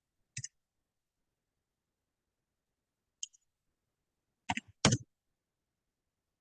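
A few short clicks with silence between them: one about half a second in, a faint one about three seconds in, and two close together near the end.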